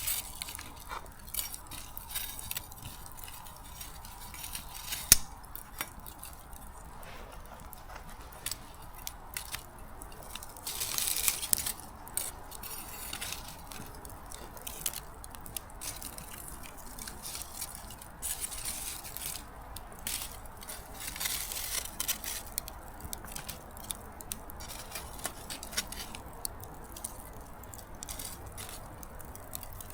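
Small wood fire burning down to embers, crackling with irregular light pops and ticks over a soft hiss, one sharp pop about five seconds in.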